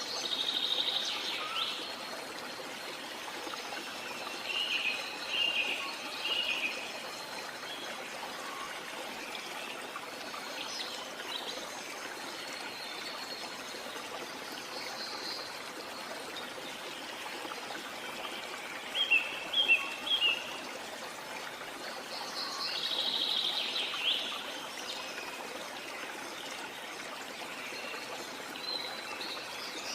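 Steady rush of a jungle waterfall, with birds calling over it: a run of calls about a second in, chirping around five to seven seconds, a few sharp, loud chirps around twenty seconds, and another run of calls a little after.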